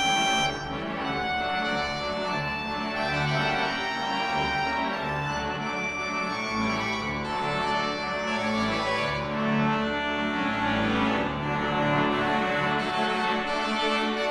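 Pipe organ playing full, sustained chords over low pedal notes that change every second or so.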